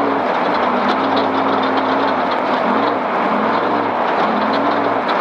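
Off-road race vehicle's engine running at low speed, its pitch wavering slightly up and down, under a steady rattle and rumble, heard from inside the vehicle.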